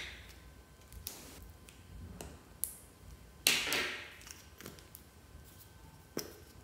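Fluffy slime being pressed and stretched by hand, giving a series of separate sticky clicks and squelches. The loudest comes about three and a half seconds in and fades over half a second.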